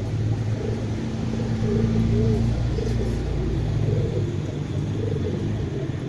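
Domestic pigeon cooing, a string of short repeated coos, over a steady low rumble.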